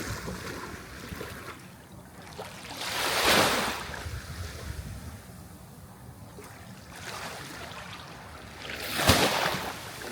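Sea waves breaking on the shore: two waves swell up and wash in, about six seconds apart, with a softer hiss of water between them.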